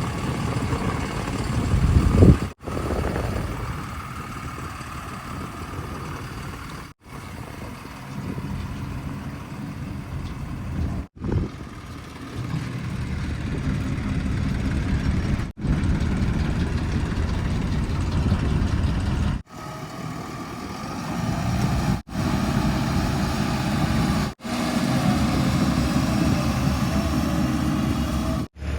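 Diesel engines of heavy earthmoving machinery running, heard as a string of short spliced clips, with the sound cutting off and changing abruptly about eight times.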